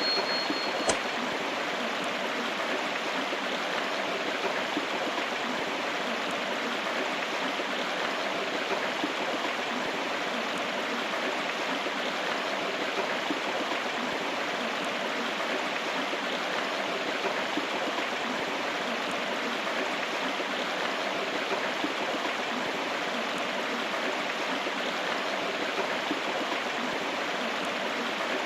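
River water flowing steadily: a constant, even rush of running water.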